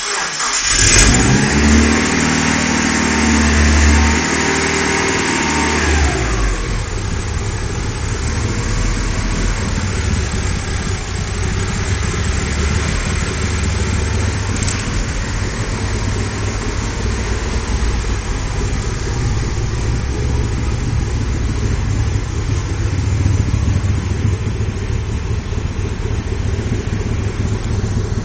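Mitsubishi Lancer Evolution IX's 2.0-litre turbocharged 4G63 four-cylinder engine on its first start-up after being fitted. It catches at once and runs at raised, wavering revs for about six seconds, then settles into a steady idle.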